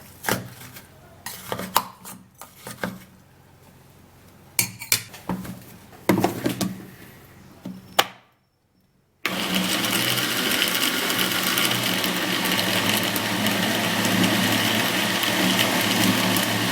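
Knocks and clatter of handling a blender and its jar, then after a second of silence an electric blender starts about nine seconds in and runs steadily, blending watermelon.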